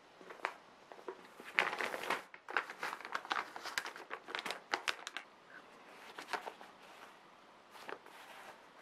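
Crinkling and rustling, like paper or plastic being handled, with scattered small clicks; busiest in the first half and thinning out later.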